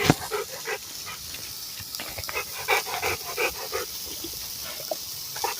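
A dog panting, a steady run of short quick breaths.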